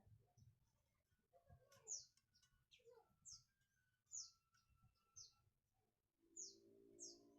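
Small birds chirping: faint, short, high chirps that fall in pitch, repeating about once a second. A low steady hum comes in about six seconds in.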